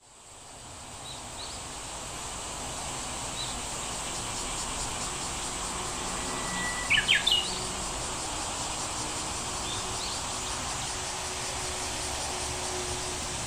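Birds chirping now and then over a steady outdoor noise bed with a constant high, thin whine, fading in at the start; a loud quick cluster of chirps comes about seven seconds in.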